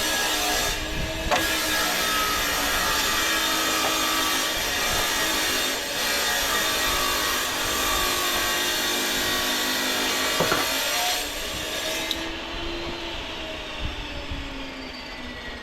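A loud, continuous rough scraping and rubbing sound with a wavering hum that drifts slowly in pitch. It eases off about twelve seconds in.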